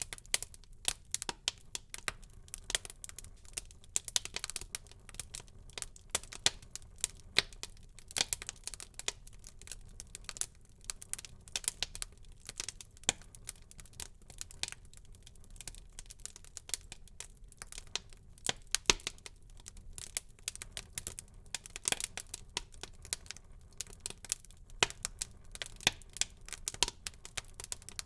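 Wood fire crackling in a fireplace: dense, irregular sharp pops and snaps over a low steady hiss, a few louder pops standing out.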